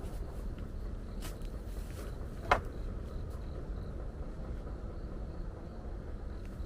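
Steady low rumble of outdoor background noise, with a few faint clicks and one sharp knock about two and a half seconds in.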